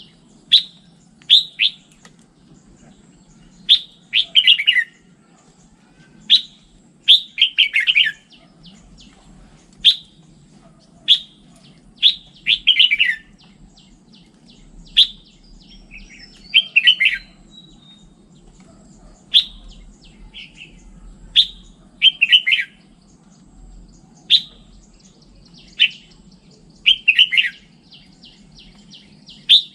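Red-whiskered bulbul singing: short, quick warbled phrases repeated every second or so, over a faint low hum.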